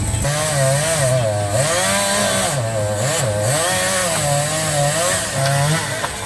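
Chainsaw running and cutting, its engine pitch rising and falling over and over as it works. It starts abruptly just after the beginning and stops abruptly shortly before the end.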